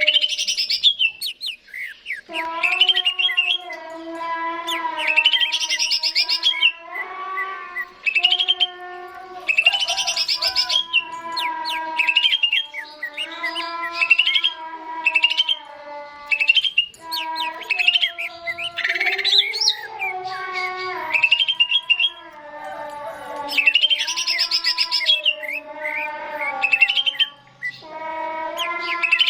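Green leafbird (cucak ijo) song: repeated bursts of rapid high chirps and trills, over a steady lower tone that steps to a new pitch every second or two.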